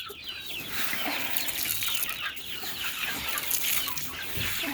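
A flock of young chickens peeping and clucking, many short calls overlapping, over a steady hiss.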